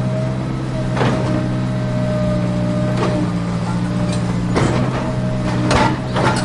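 Steady engine-like hum of a toy vehicle, with several sharp knocks and clatters, the last two close together near the end.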